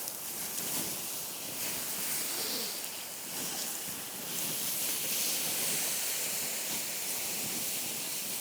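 Campfire being doused with water: a steady hiss of steam and water on the wet embers, rising and falling a little.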